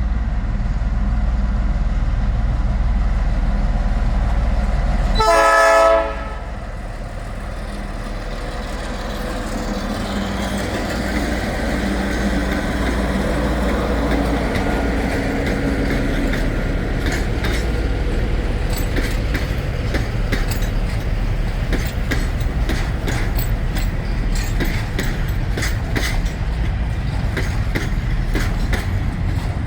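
Diesel freight locomotives, an EMD GR-12W and an ALCo RSD16, rumbling past, with a short, loud horn blast about five seconds in. After that, the long train of container flatcars and grain hopper cars rolls by, with wheels clicking over the rail joints.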